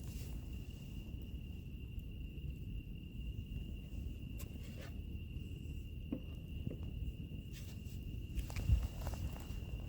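Wood fire crackling, with scattered sharp pops over a low rumble, the loudest pop about a second before the end. Insects keep up a steady high-pitched trill.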